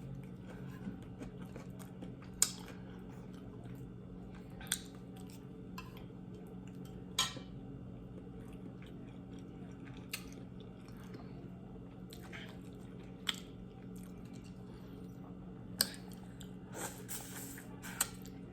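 A person eating shrimp and pasta close to the microphone, with quiet chewing and a fork clicking sharply against the plate every few seconds. A steady low hum runs underneath.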